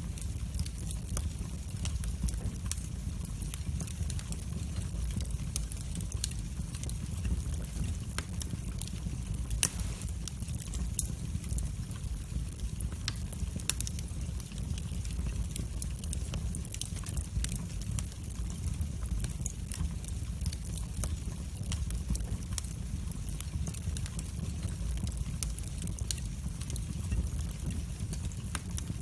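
Wood fire burning in a fireplace: a steady low rumble of flames under constant scattered sharp crackles and pops, one pop louder than the rest about ten seconds in.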